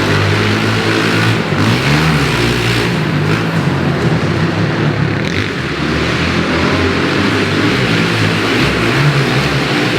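Pit bike engine revving hard around a dirt track, its pitch rising and falling repeatedly as the rider accelerates and backs off.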